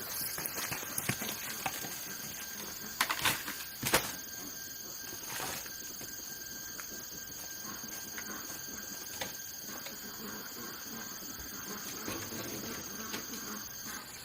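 Steady high-pitched insect drone, with a few sharp clicks or snaps about three to four seconds in.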